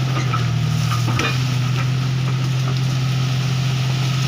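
Komatsu PC200-5 excavator's diesel engine running steadily under load, with a crackling hiss over it; the engine note shifts slightly about a second in.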